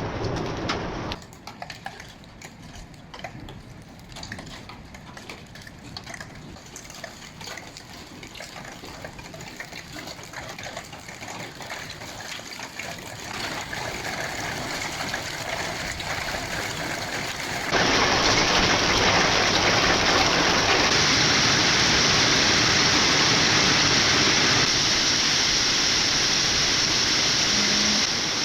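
Rain: a light patter of drops that builds steadily, then about two-thirds of the way through a sudden change to a heavy, steady downpour.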